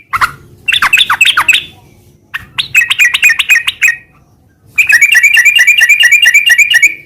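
Yellow-vented bulbul (trucukan) singing in loud bursts of fast chattering notes, about nine a second. There are short phrases with brief pauses between them, and the longest run comes in the second half.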